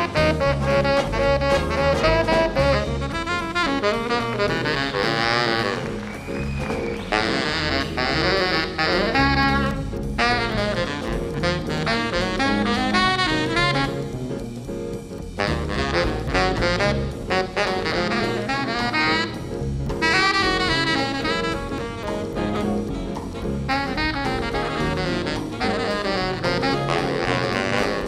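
Jazz band playing, with a saxophone taking the lead melody in quick, ornamented runs over drum kit and bass.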